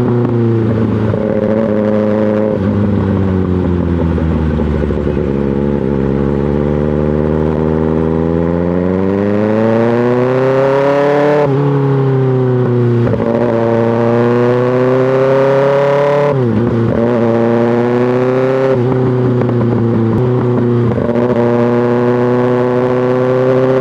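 2024 Kawasaki ZX-6R's inline-four engine through an M4 GP slip-on exhaust. It slows and falls in pitch, then pulls up through the revs, with several quick upshifts where the pitch drops sharply before climbing again.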